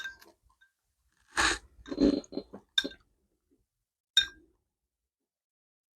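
Eating syrupy peaches straight from the jar: a utensil clinks on the jar, once at the start and again about four seconds in, with slurping and chewing sounds in between.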